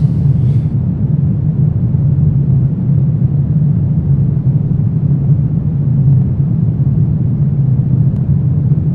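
Steady low rumbling drone of a dark horror ambience track, even in level and without rhythm or change in pitch.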